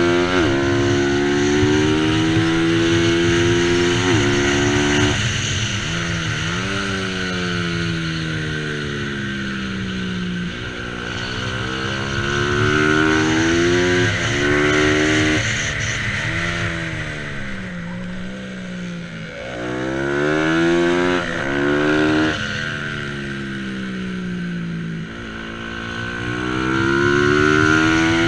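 A race motorcycle's engine held at high revs: it climbs in pitch, drops sharply at each upshift, and falls away in long glides when the rider backs off for corners, over and over.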